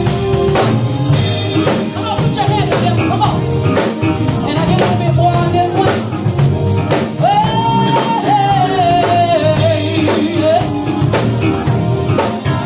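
Live gospel band with drum kit playing a steady beat while a woman sings over it, holding one long note that slides slowly downward in the middle.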